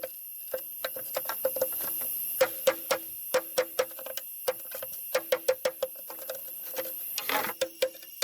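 Quick, irregular sharp taps on hollow bamboo, about three or four a second with short pauses, each giving a brief hollow pitched ring.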